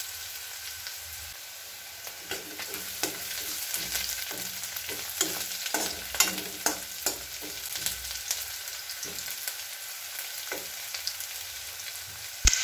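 Sliced onion and whole spices sizzling in hot oil in a metal kadhai while a metal spatula stirs them, scraping and clicking against the pan through the middle. One sharp knock comes near the end.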